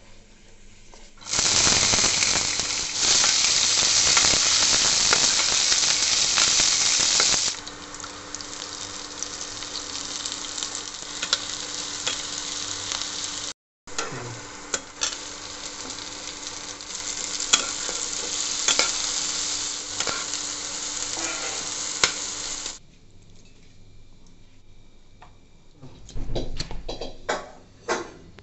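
Sliced onions, green chillies and tomato pieces frying in oil in a wok, sizzling, with the clicks and scrapes of a spatula stirring them. The sizzle is loudest for the first several seconds, then settles lower and stops about three-quarters of the way through. A few knocks follow near the end.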